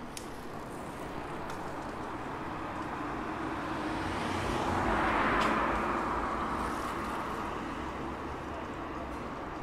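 A vehicle driving past on a street. Its noise swells steadily to a peak about five seconds in, then fades away.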